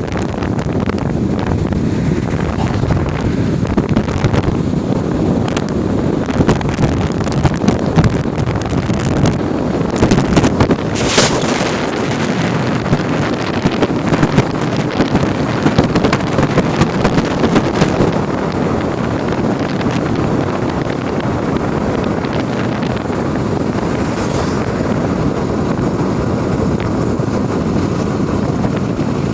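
A 2014 Ford Focus being driven, with steady road and engine noise. For several seconds in the middle there is a run of sharp clicks and knocks.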